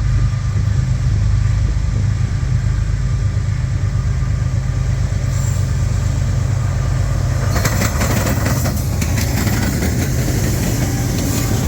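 Diesel freight locomotives running as the train passes close by, a steady low rumble. About two-thirds of the way through, a rapid clatter of wheels begins, typical of wheels crossing a rail diamond.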